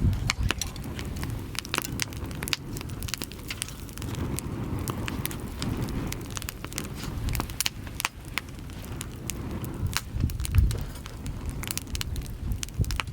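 Firewood burning in a fire pit, crackling with many sharp, irregular pops over a low rumble.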